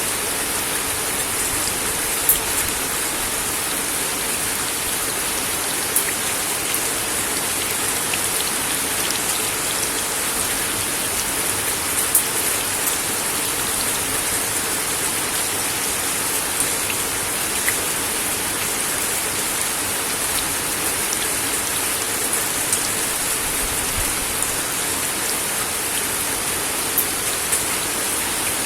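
Steady rain falling on a wooden deck, a constant hiss with scattered louder individual drops ticking on the boards.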